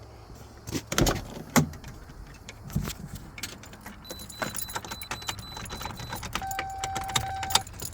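Keys jangling with clicks and knocks as the truck's ignition key is handled. Near the end comes a steady electronic chime of about a second.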